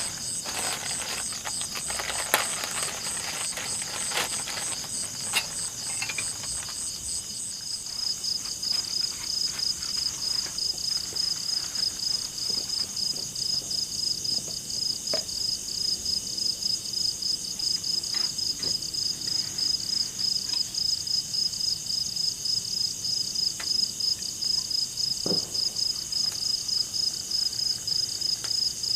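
Forest insects chirping in a fast, even, high-pitched pulse; the pitch of the chirping drops about eight seconds in, where a second insect takes over. Scattered light clicks and knocks in the first few seconds.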